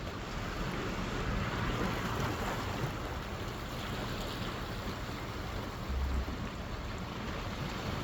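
Steady wind rush and engine and road noise from a moving motorcycle, with a brief low thump about six seconds in.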